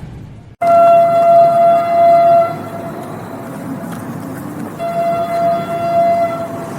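Train horn sounding two long blasts on one steady note, about two seconds each with a short gap between, over the rumble of the passing train.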